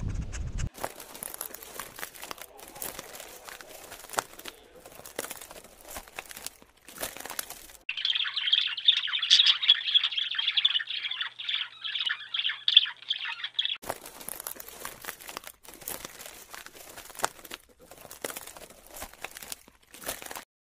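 A bird chirping rapidly and densely for about six seconds in the middle, the loudest sound. Before and after it come stretches of scattered clicks and crackly rustling.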